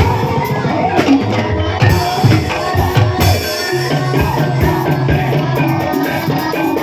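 Live gamelan music accompanying an ebeg horse-trance dance: hand-drum strokes over ringing metal percussion, with a sustained low note entering about four seconds in.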